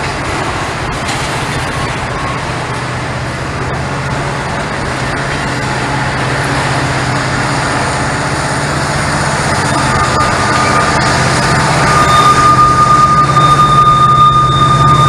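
Norfolk Southern freight train's diesel locomotives running with a steady low drone, growing louder as they come closer. A steady high-pitched whine sets in about ten seconds in and holds to the end.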